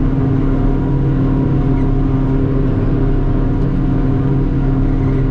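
Heavy diesel farm machinery engine running at a steady speed, an even drone.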